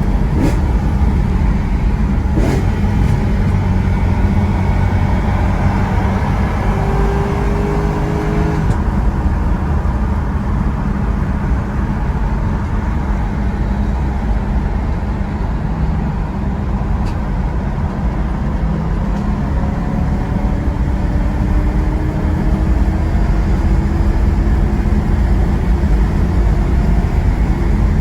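Car with an aftermarket exhaust running under way: a loud, steady low rumble, with a faint tone rising slowly in pitch near the end.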